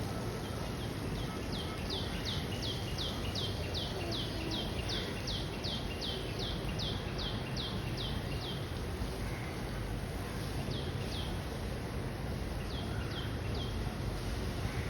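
A small songbird calling a fast series of high, downward-sliding notes, about four a second for some eight seconds, then two short bursts of the same notes later on, over a steady background hiss.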